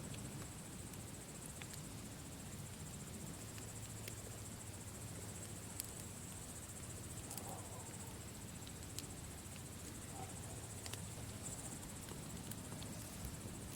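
Campfire crackling, with scattered sharp pops, under a steady high-pitched trill of insects.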